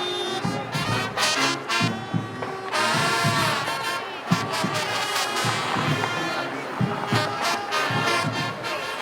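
Upbeat brass music with trumpet and trombone over a steady beat, in a swing style.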